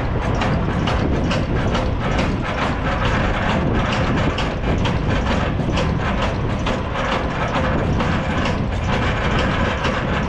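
Semi truck's diesel engine running as the rig maneuvers, with a rapid, uneven clatter and wind buffeting the microphone.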